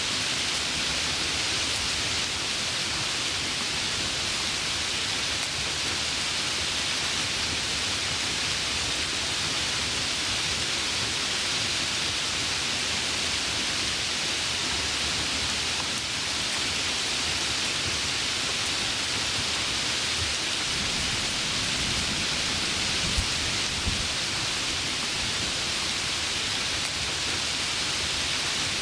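Heavy rain falling steadily, a dense, even hiss, with a brief low rumble of thunder a little past the middle.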